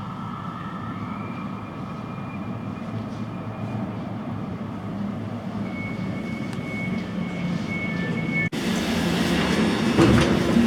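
Elizabeth line electric train running, a steady rumble that slowly grows louder with a faint high whine over it. About eight and a half seconds in it cuts abruptly to louder train running noise.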